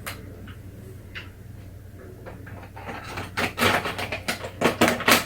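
Ice cubes clattering and knocking inside a plastic toy Blizzard maker. There are a few isolated clicks at first, then a dense, rising run of sharp rattling knocks starting about three seconds in.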